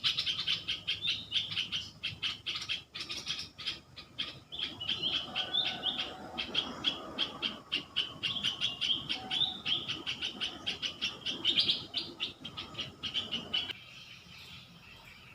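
Forest bird calling a fast, even run of short, high chirps, about five a second, that stops abruptly near the end and leaves a faint background hush.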